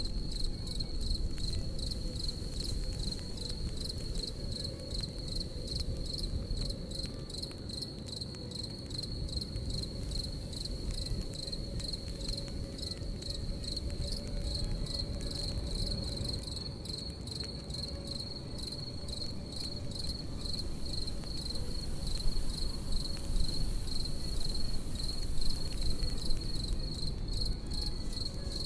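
Crickets chirping in a steady, rapid high-pitched pulse, with a campfire's low rumble and scattered crackles beneath, a few louder pops near the end.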